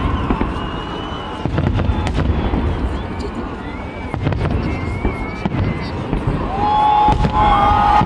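Large fireworks display: a dense run of bangs and crackles from bursting aerial shells over a deep rumble, with high whistling tones sliding through and getting louder near the end.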